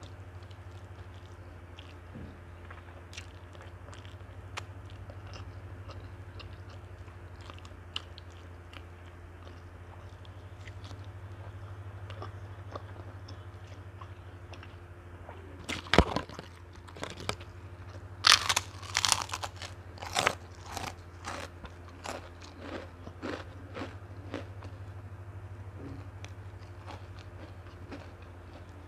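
Close-mic eating: soft chewing with small mouth clicks, then a sharp crunch about halfway through followed by a run of loud crunches as something crisp is bitten and chewed, fading back to quieter chewing near the end. A steady low hum runs underneath.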